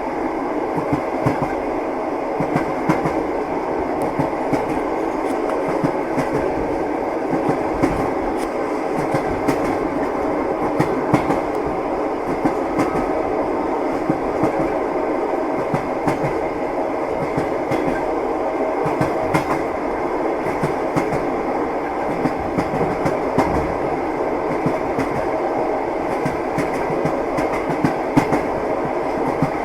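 Passenger train running, heard from inside a carriage: a steady rumble with the wheels clicking irregularly over rail joints.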